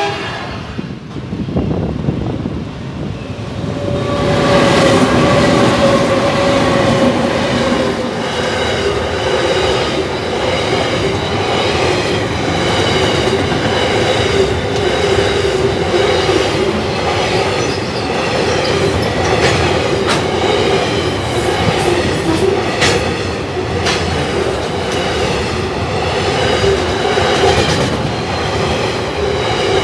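Freight train's wagons rolling past at close range: a steady loud rumble of wheels on rail with occasional clicks. From about four seconds in, several wheels squeal steadily.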